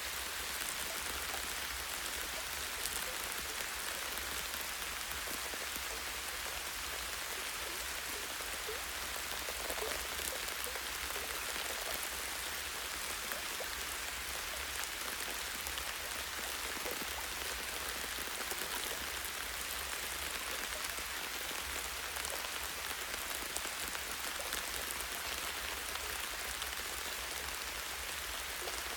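Light, steady rain falling on trees, with a constant patter of drops and many small individual drip ticks.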